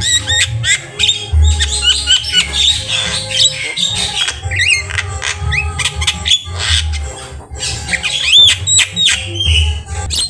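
Javan myna singing a fast, varied song of sharp clicks, quick rising and falling whistles and harsh squawks, with barely a pause, its song filled with borrowed call notes.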